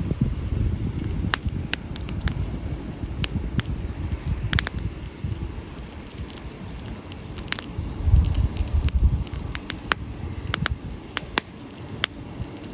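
Wood campfire crackling, with sharp pops at irregular intervals over a low rumble that swells about eight seconds in.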